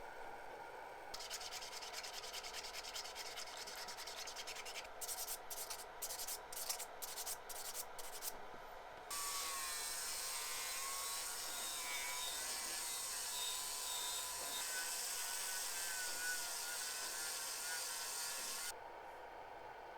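Metal being sanded: rapid rubbing strokes that turn into separate strokes about two a second, then a steadier hiss with a faint wavering whine for about ten seconds that cuts off suddenly.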